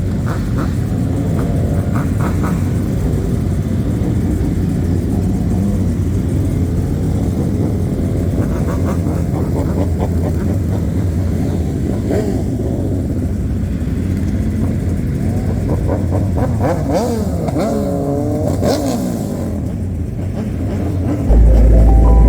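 Car engines rumbling, with a few revs that rise and fall in pitch. A very loud deep bass comes in suddenly near the end.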